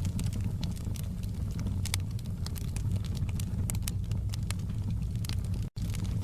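Wood fire burning in a fireplace: a steady low rumble of flames with frequent sharp crackles and pops of burning logs. The sound cuts out for an instant near the end.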